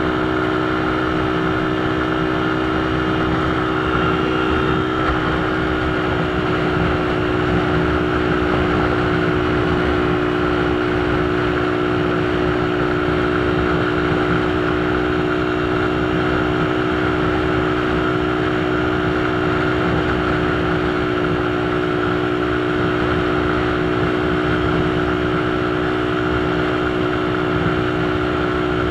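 Motorcycle engine running at a steady cruising speed, its hum held at one pitch, with constant road and wind noise.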